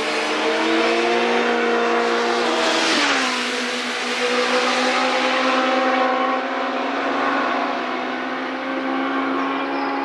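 Engine of a vehicle driving by at speed on a race circuit, running a steady high note. About three seconds in, a rush of noise peaks and the pitch drops as it passes.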